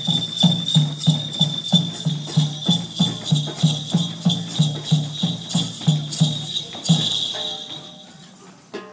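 Dance music of a steady low drum beat, about three beats a second, with bells jingling throughout. The drumming stops about seven seconds in and the jingling dies away.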